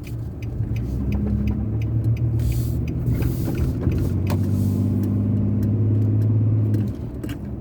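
Car engine and road noise heard from inside the cabin while driving: a steady low drone that swells about four seconds in and drops off sharply near the end, as if the driver eases off the throttle.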